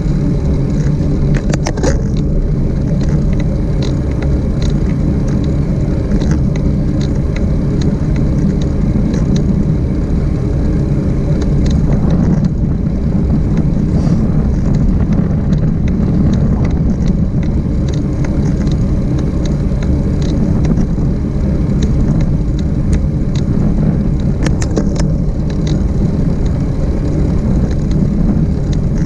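Riding noise from a bike in motion: a steady low rumble with scattered small clicks and rattles.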